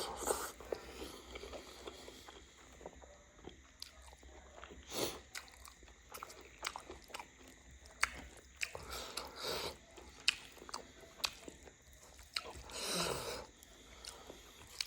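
Close-up mukbang eating sounds: chewing and crunching with many sharp mouth clicks, and a few short louder bursts.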